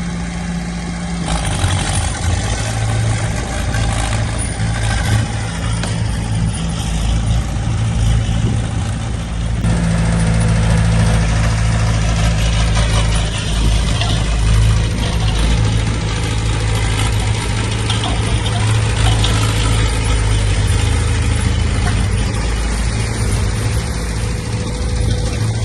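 Heavy diesel engine of earthmoving machinery running steadily, getting louder about ten seconds in.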